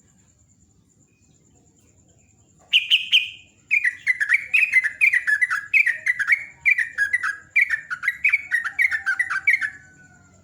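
Yellow-vented bulbul (trucukan) singing. After a quiet start it gives one loud falling note, then a long, fast run of repeated bubbling notes that each slide downward, stopping just before the end.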